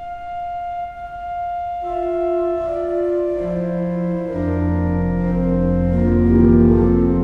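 Organ playing slow held chords. A single high note sounds first, then lower voices join one by one, and deep bass notes come in about halfway as the sound swells.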